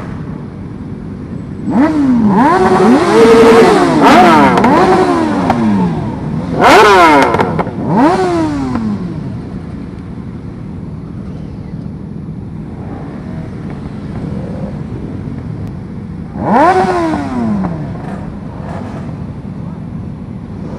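Sports motorcycle engines revved in quick throttle blips, the pitch shooting up and dropping back each time: a cluster of overlapping revs over several seconds, a sharp single blip after it, then one more rev later on, over a steady background of engines running.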